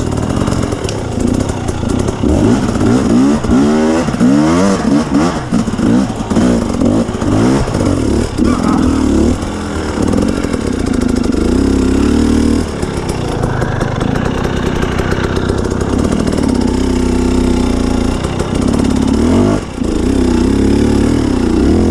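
Two-stroke KTM 250 EXC dirt bike engine revving up and down over and over as the throttle is worked on a steep, slippery climb, with brief drops in revs about halfway through and again near the end.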